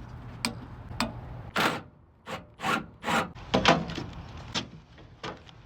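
Irregular scraping rubs and knocks, about a dozen, from parts and tools being handled while working on an old HVAC unit, over a faint steady hum that fades about a second and a half in.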